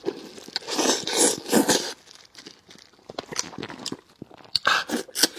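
Close-miked eating of a braised fish head: wet, noisy mouth sounds for about the first two seconds, then scattered smacking clicks of chewing and picking at the flesh and bones.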